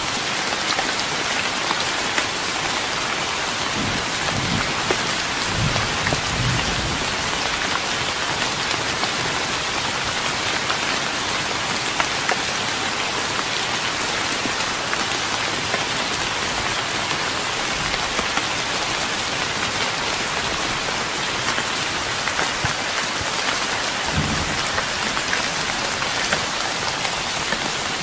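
Steady rain falling on a wooden deck: an even hiss of rain dotted with individual drop ticks. Brief low rumbles come in about four to six seconds in and again near the end.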